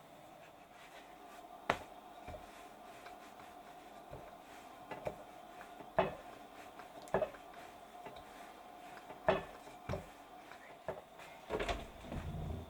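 Scattered knocks, clicks and clatter of things being handled and set down in a kitchen, at irregular intervals, with a faint steady hum underneath. A duller, lower thump comes near the end.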